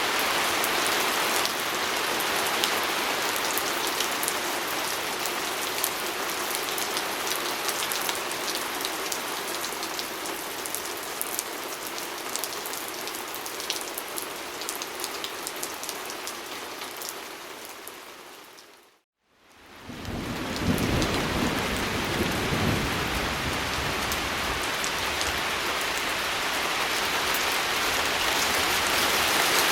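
Steady rain pattering on a window, with fine drop ticks. About two-thirds of the way through it fades out to silence for a moment, then fades back in with a low rumble.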